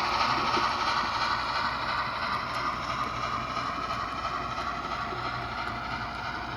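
Model train running along the layout track, a steady rolling whir of wheels and motor with faint clicking, slowly getting quieter as it moves away.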